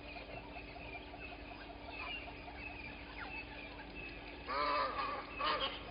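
Morning chorus of small birds chirping and twittering at a waterhole. About four and a half seconds in, a large bird breaks in with loud, harsh calls, repeated several times.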